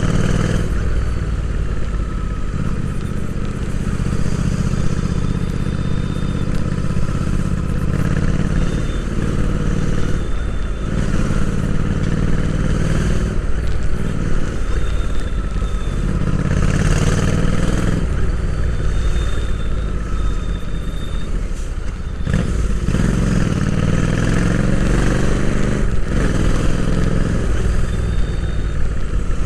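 Royal Enfield Interceptor 650's 648 cc parallel-twin engine running under way, heard from on board the bike. Its pitch rises and falls several times as the throttle opens and closes and the gears change.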